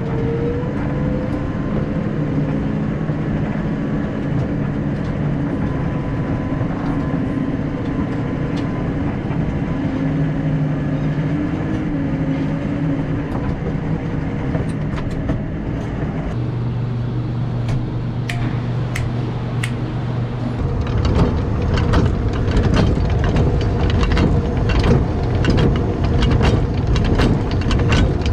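Engine of farm machinery running steadily. Its sound shifts about two-thirds of the way through, and a run of sharp clicks and knocks sets in over it.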